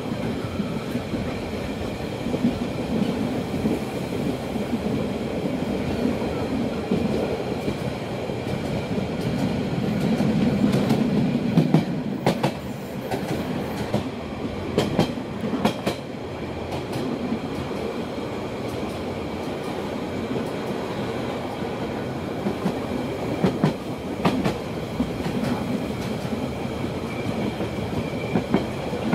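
Rhaetian Railway train running, heard from an open carriage: a steady rumble of wheels on rail with scattered sharp clacks from the rail joints. The clacks come thickest near the middle, while the train is in a tunnel.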